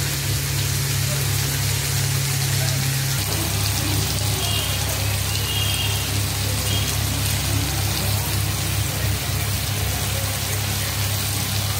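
Vegetables sizzling as they stir-fry in a hot kadai, an even hiss over a steady low hum.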